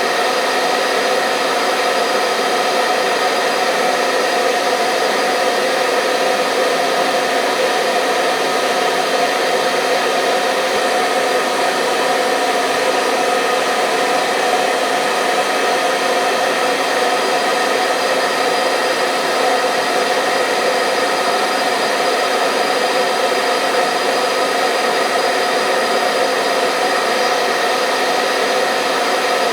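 Hair dryer running steadily at constant speed: an even, unbroken whir of fan and blowing air, with a steady hum of many tones.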